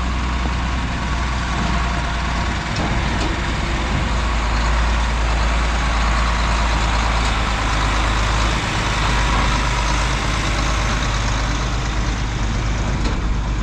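John Deere 4640 tractor's six-cylinder diesel engine running steadily with a constant low hum as it pulls in towing a grain cart and a corn head.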